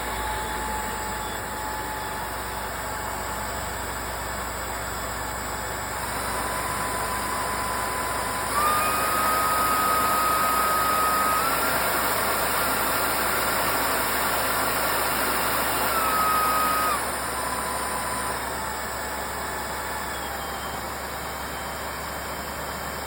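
Samsung Bespoke Jet AI cordless stick vacuum running, a motor whine over the rush of suction air. The whine steps up in pitch and loudness three times as the power setting is raised, holds at its loudest for several seconds, then steps back down.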